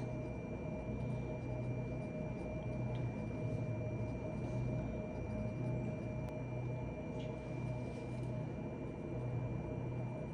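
Steady low hum of a running appliance, with a faint high whine over it and a few faint, light clicks.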